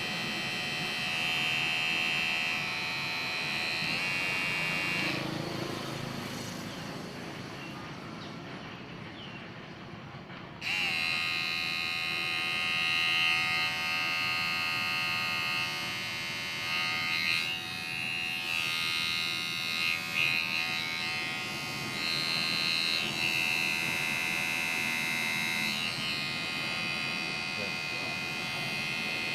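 Kemei 1990 electric shaver running with a steady buzz. It fades a little over several seconds, then turns suddenly louder and brighter about ten seconds in and wavers for a while before settling.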